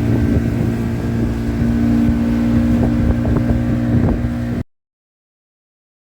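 Outboard motor of a small tin boat running steadily at a constant pitch. The sound cuts off abruptly about four and a half seconds in, leaving dead silence.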